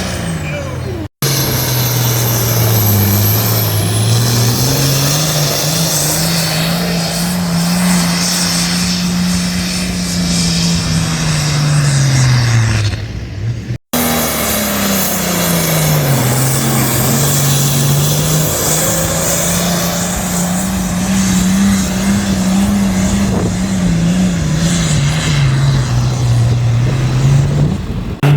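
Engine of a vehicle pulling a weight sled, its pitch climbing, holding high for several seconds, then dropping back, in two runs separated by abrupt cuts about one and fourteen seconds in.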